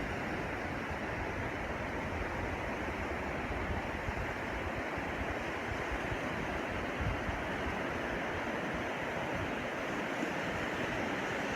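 Steady wash of sea surf on a sandy beach, with a low wind rumble on the microphone.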